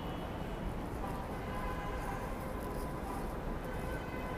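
Steady city street ambience: a low rumble of traffic, with faint steady high tones that grow a little stronger near the end.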